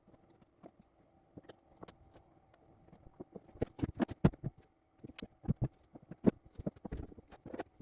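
Irregular clicks, taps and knocks of tools and parts being handled while a boat's inboard engine is unwired and taken apart, heard as sped-up time-lapse audio over a faint steady hum. The knocks come thickest in the second half.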